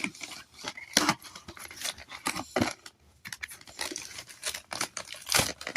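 A toy doll's box and plastic packaging being opened by hand: a series of irregular sharp clicks, snips and rustles of cardboard and plastic.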